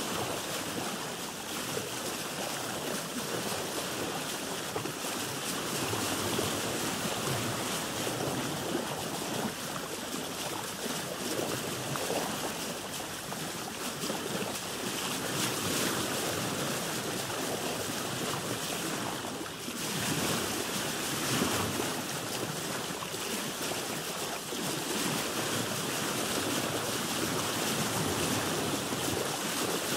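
Sea waves washing around a boat: an even rushing of water that swells and eases every few seconds, with some wind on the microphone.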